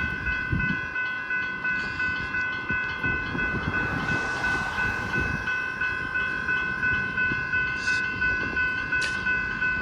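Electronic level-crossing bell ringing steadily, a bright multi-tone ding repeating about two to three times a second, sounding because the crossing is active for an approaching train. A broad rushing noise swells about four to five seconds in, over a low rumble.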